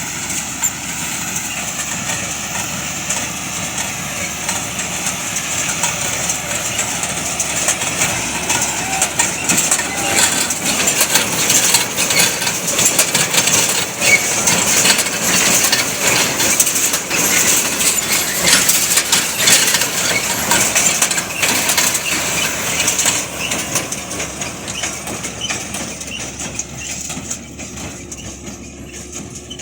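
Claas Quadrant 1200 square baler at work, a dense crunching and clattering of straw being picked up and compressed. It grows louder toward the middle and fades near the end as the machine passes.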